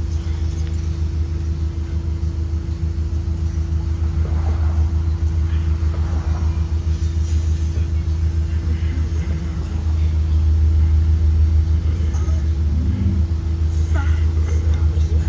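Blue Bird Vision school bus heard from on board while under way: a steady low drone with a constant hum above it, getting a little louder about two-thirds of the way through.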